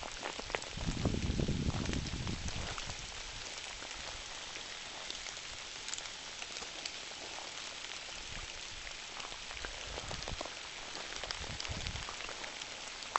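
Steady rain hissing, with scattered drops ticking. A brief rumble about a second in.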